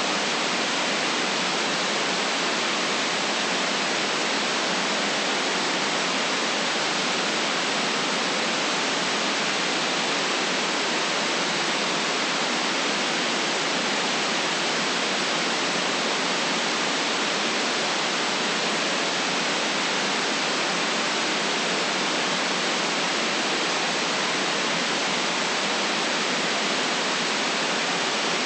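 Steady white noise, a smooth hiss that never changes in level or character and has no deep bass.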